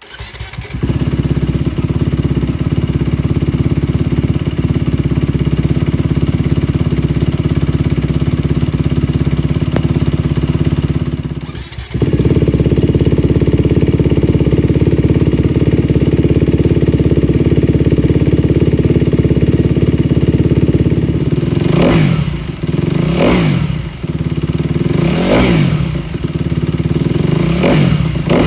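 2020 Honda CRF250R dirt bike's single-cylinder four-stroke engine idling steadily, with a brief drop-out near the middle, then four sharp throttle blips in the last few seconds, each revving up and falling back to idle.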